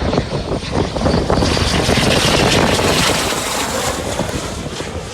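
BAE Hawk jet trainer's turbofan engine rushing as the jet passes. The noise swells to its loudest about two to three seconds in, then fades.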